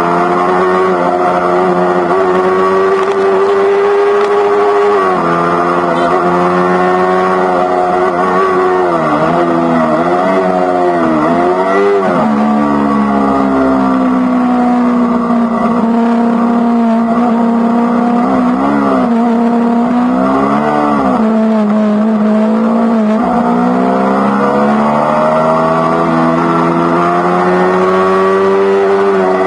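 Yamaha R3's parallel-twin engine through an Akrapovič GP slip-on exhaust, heard while riding: a steady cruising note that dips and rises in pitch several times about a third of the way in and again just past the middle, then climbs steadily near the end.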